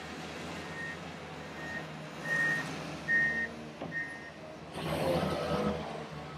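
Heavy equipment reversing alarm beeping steadily, about one beep every 0.8 seconds, over a diesel engine running. Near the end a louder rush of noise rises and fades for about a second.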